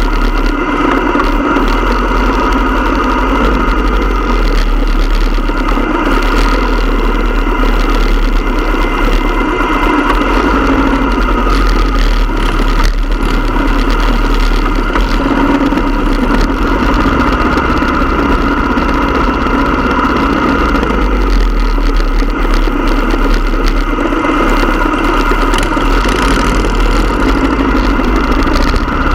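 Motorcycle engine running steadily under way, its level swelling and easing gently every few seconds.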